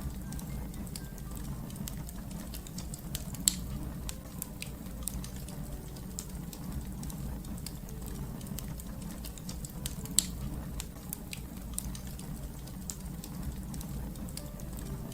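Wood fire burning, a steady low rumble with scattered sharp crackles and two louder pops, one a few seconds in and one about ten seconds in.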